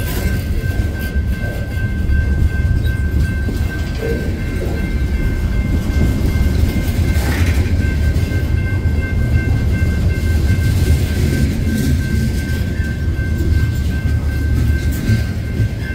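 Freight cars rolling past close by: a loud, steady low rumble of steel wheels on the rails. A thin, steady high-pitched ringing tone sits over the rumble.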